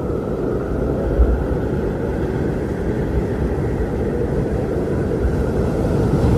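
Strong wind blowing steadily, a dense low rumble with gusts swelling about a second in and again near the end.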